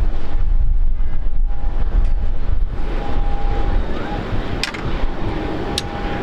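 Wind buffeting the microphone outdoors at an airfield: a loud, steady rumble, with a thin steady tone running through it and a couple of sharp clicks near the end.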